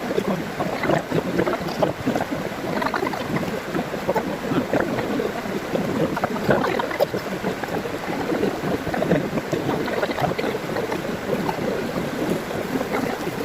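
Steady rushing water, a continuous splashing, hissing wash with no pauses.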